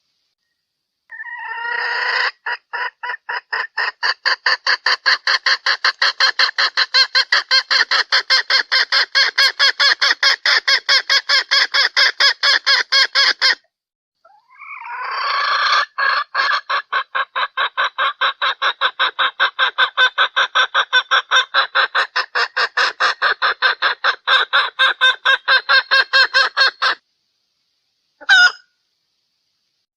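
Junglefowl hen calling: a long run of fast, evenly spaced clucks, about three or four a second, a brief pause about halfway, then a second long run and one short call near the end.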